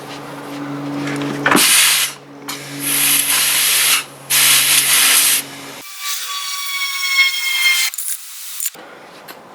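Air compressor running with a steady hum while air is fed into a freshly plugged car tyre in three loud bursts of hissing air. About six seconds in the sound changes abruptly to a thinner high hiss with faint whining tones, which stops shortly before the end.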